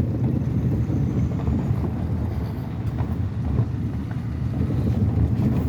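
Truck running at low speed, heard from inside the cab: a steady low rumble of engine and tyres on the road, with a few faint ticks.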